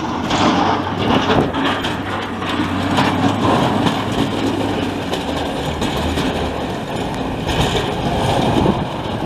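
Montreal metro train running, heard from on board: a steady rumble and rushing noise with a low hum that drops in pitch about six seconds in.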